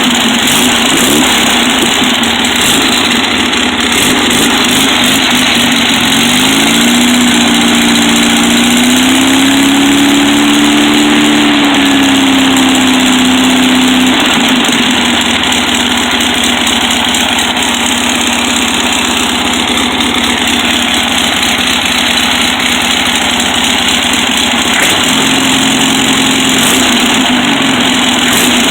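1500cc Volkswagen air-cooled flat-four engine running loudly through its exhaust. Its speed picks up about six seconds in, wavers and eases back by about fourteen seconds, with another brief rise near the end.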